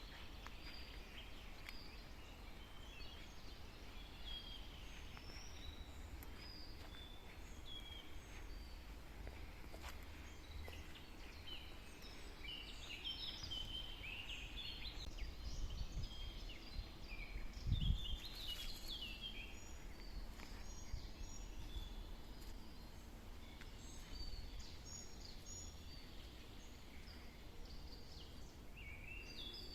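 Several songbirds chirping and singing in woodland, short notes overlapping, busiest about halfway through, over a faint low rumble. A brief low thump comes about two-thirds of the way through.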